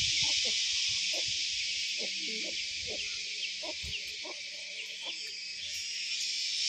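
Steady high-pitched insect chorus, a continuous shrill buzz, with scattered faint short chirps and ticks beneath it.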